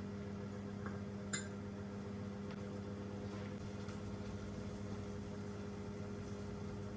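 Steady electrical hum of a running kitchen appliance, with a single light clink about a second and a half in.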